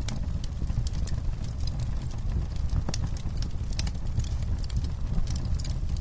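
Campfire crackling: irregular sharp snaps and pops of burning wood over a steady low rumble of the fire.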